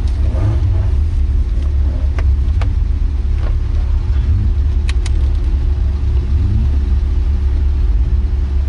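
Porsche 924's 2.0-litre four-cylinder engine running steadily at low revs without revving, heard from inside the cabin as a strong low rumble, with a few sharp clicks about two and five seconds in.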